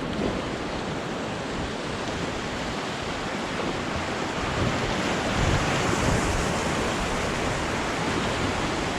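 Whitewater of the Arkansas River rapids rushing steadily around a raft, growing a little louder about five seconds in.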